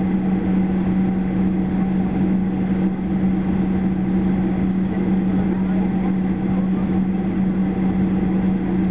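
Steady drone inside the cabin of a Boeing 737-800 airliner: engines and air systems running, with a constant low hum and no change in pitch or loudness.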